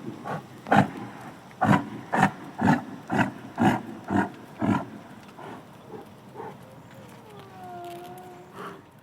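An animal calling in a quick series of about ten loud, short calls, roughly two a second, which then fade. Near the end comes one longer call that falls in pitch and then holds steady.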